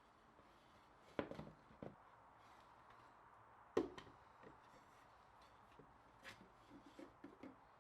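Scattered knocks and taps of wood and tools being handled on a workbench, faint overall. There is a short cluster of knocks about a second in, one sharper knock near the middle, and a few light taps near the end.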